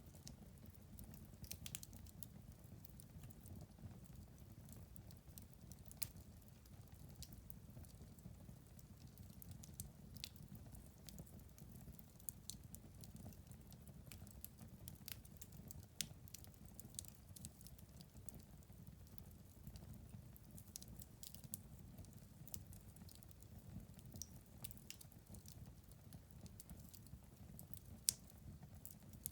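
Fire burning in a fireplace, crackling quietly: a low steady rumble of flames with scattered small crackles and a few sharper pops, the loudest near the end.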